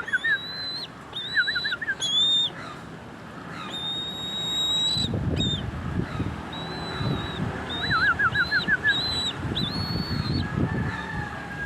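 Bird calls: repeated high, level whistled notes alternating with quick chattering trills. A low rumbling noise joins them about halfway through.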